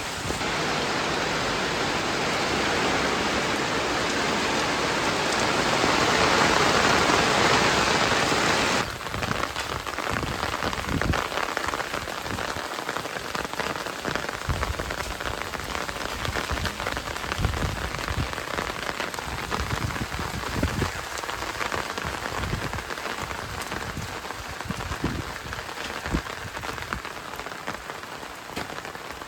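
Heavy rain falling in a dense, steady hiss that swells for the first several seconds. About nine seconds in it cuts abruptly to lighter rain with many drops tapping and knocking close by.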